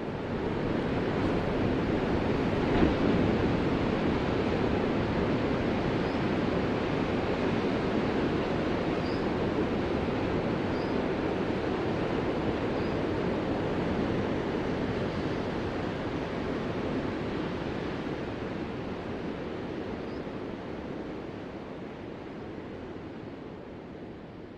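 Ocean surf: a steady rush of breaking waves that swells up within the first second and slowly fades over the last ten seconds or so.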